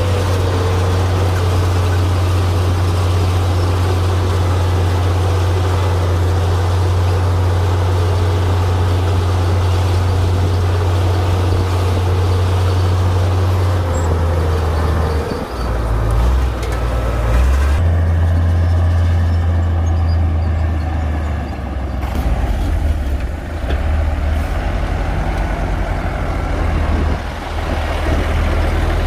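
Komatsu D58P swamp bulldozer's diesel engine running with a steady low drone. Its pitch shifts about halfway through and again later, with brief dips in loudness, as the engine load changes while it pushes dirt.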